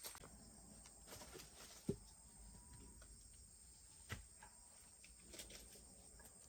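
Near silence with faint outdoor background and two short knocks, about two seconds in and again about four seconds in.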